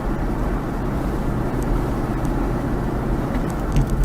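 Steady road and engine noise of a vehicle driving, as picked up by a dashcam inside it: a low rumble with hiss on top. A few faint clicks come near the end.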